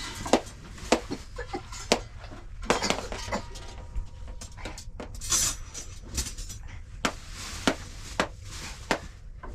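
A string of sharp knocks and clatters, irregular, about one every half second to a second, with short scraping sounds in between, like dishes or utensils being handled.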